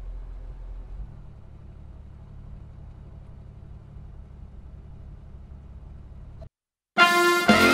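Chevrolet Cruze engine idling steadily just after starting, settling a little lower about a second in, then cutting off abruptly.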